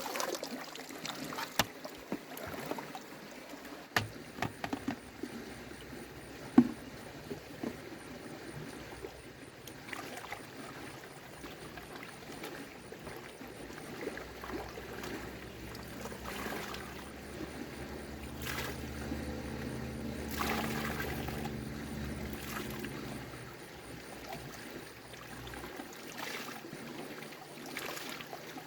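Water splashing and trickling, with sharp clicks and knocks in the first few seconds. A low steady hum comes in about halfway and fades out near the end.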